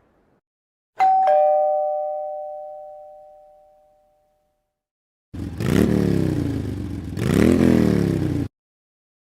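Two-tone doorbell chime: a 'ding-dong', a higher note then a lower one, ringing out and fading over about three seconds. A few seconds later, a louder droning sound whose pitch rises twice, cutting off suddenly.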